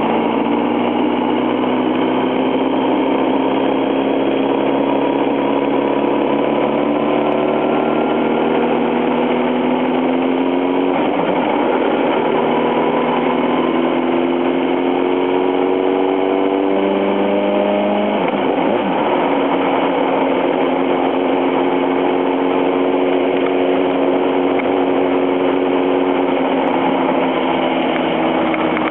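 Honda CBR954RR's inline-four engine pulling the bike up through the gears at low revs, its pitch rising steadily, dipping at two gear changes about eleven and eighteen seconds in, then holding steady at cruise.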